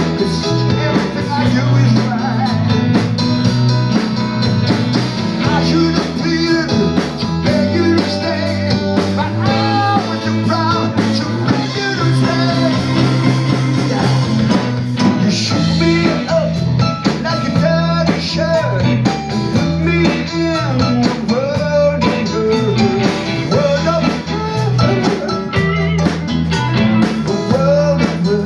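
A blues trio playing live in a pub: guitar over bass and drums.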